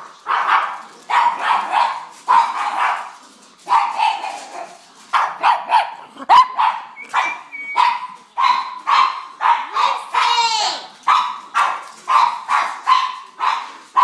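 Pug barking in a rapid run of short, high barks, two to three a second, with one longer wavering cry about ten seconds in: her agitated reaction to a human sneeze.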